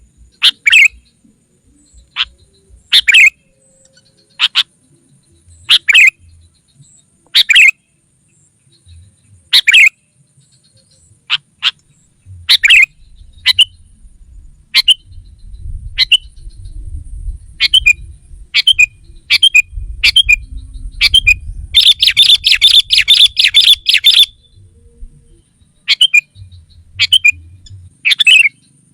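Sooty-headed bulbul (kutilang) calling in short, loud notes every second or two, with a dense burst of rapid, harsh chattering about 22 seconds in that lasts about two seconds. It is a lively lure call of the kind used to draw wild bulbuls in.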